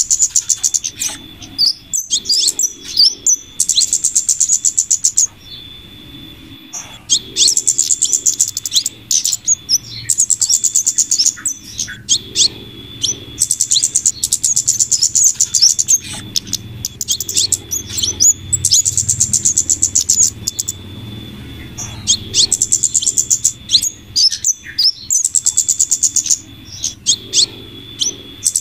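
Bird-lure recording of flowerpecker calls mixed with female scarlet minivet calls. Runs of rapid, high-pitched ticking trills each last a few seconds and repeat about every five seconds, with a thin steady high note and scattered sharp single calls between them.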